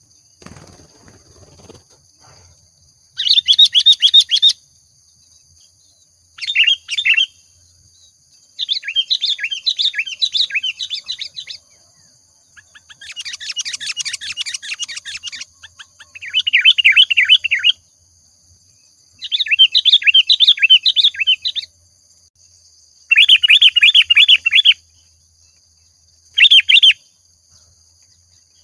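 Sooty-headed bulbul (kutilang) singing vigorously, in about eight short bursts of fast, bubbly warbled phrases separated by brief pauses.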